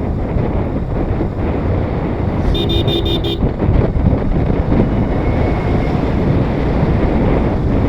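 Motorcycle riding along a road with wind rushing over the microphone, and a vehicle horn tooting about five quick times around two and a half seconds in.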